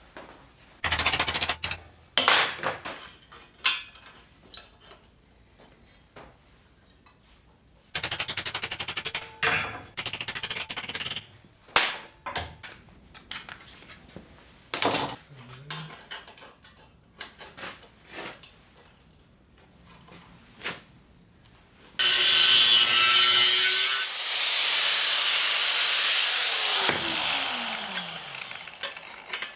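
A power tool cutting out rusted steel from a vehicle's floor supports, in several short bursts with clicks and knocks between them. Near the end it makes a longer, louder cut, then winds down with a falling whine.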